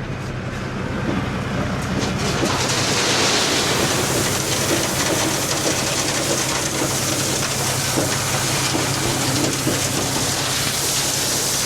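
A truck's diesel engine running with a steady low hum under a loud, even rushing noise that swells about two seconds in.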